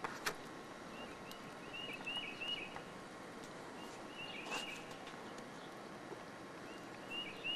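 A small bird chirping faintly, short arched notes in quick runs of two or three, repeating several times over a soft outdoor background.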